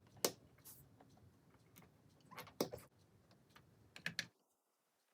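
Plastic LEGO pieces being handled and pressed together: a few separate sharp clicks and short rattles, then dead silence near the end.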